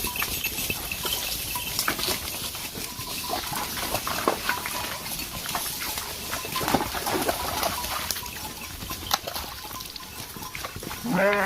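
Scattered clicks and knocks over a steady hiss, with one bleat from livestock near the end.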